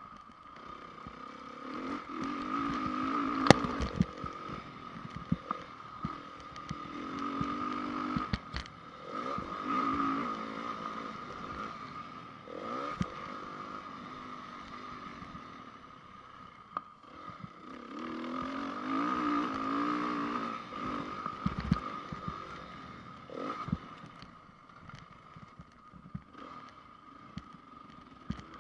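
2010 Honda CRF 450 four-stroke single-cylinder motocross engine repeatedly opening up and backing off on a dirt track, in several surges of revs. Scattered sharp knocks and clatter come from the bike over the bumps.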